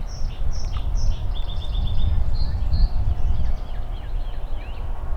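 Songbird singing: a few short high whistled notes, then a quick trill about a second and a half in, and more scattered notes after it, over a steady low rumble of wind noise.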